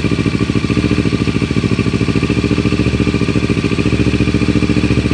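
2018 Kawasaki Ninja 650's parallel-twin engine idling steadily through a Yoshimura R77 full exhaust system, with an even pulsing beat.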